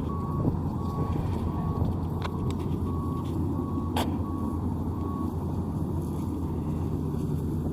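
Maxxi NDR85 Turbo Matic combine harvester's engine running steadily with a low drone, while its reversing alarm beeps at an even rate, about one beep every 0.7 s, stopping about five seconds in. A sharp click about four seconds in.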